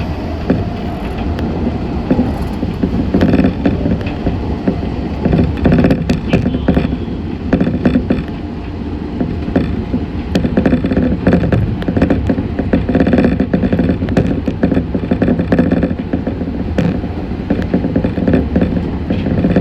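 Meitetsu 6500 series electric train running at speed, heard from inside the front car: a steady rumble of wheels on rail with frequent clicks and rattles.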